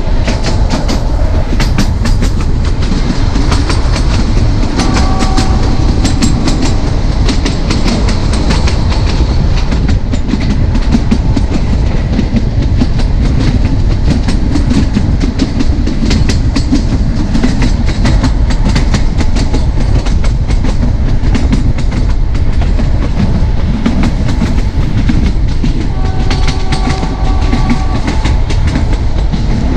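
Narrow gauge train running, heard from on board: a steady rumble of the coaches with continuous clicking of the wheels over the track. Two brief steady tones sound, about five seconds in and again near the end.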